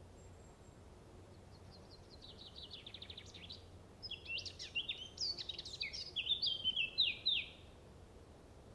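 A small songbird singing: a quick trill of repeated high notes that grows louder, then a jumbled run of chirps and whistles, over a faint steady hum.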